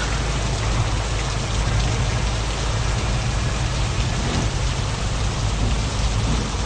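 Truck on the move: steady low engine drone under an even hiss of road and tyre noise.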